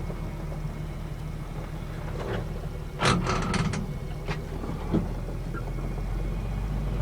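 Old grain truck's engine running steady and low, with a quick cluster of rattles and clunks about three seconds in and a couple of single knocks shortly after as the truck jolts over bumps.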